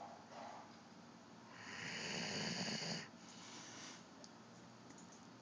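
German Shepherd snoring: one long snore about two seconds in, lasting over a second, with quieter breathing before and after it.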